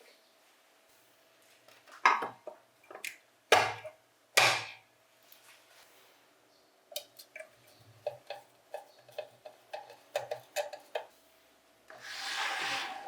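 Hand tools and metal parts knocking and clinking during bench grinder reassembly: a few sharp knocks, then a run of light taps about two a second, and a short rushing noise near the end.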